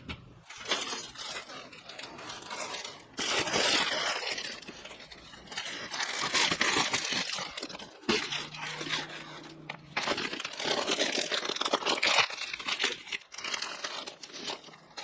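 Crinkling and rustling handling noise in several stretches of a few seconds each, separated by short pauses.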